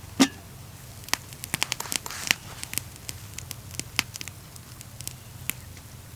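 Wood campfire crackling with irregular sharp pops. A loud pop comes just after the start and a quick flurry follows about two seconds in.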